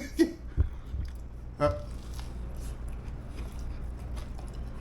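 A man chewing a bite of breaded buffalo cauliflower wing: soft, scattered mouth clicks over a steady low hum, with a couple of sharper clicks in the first two seconds.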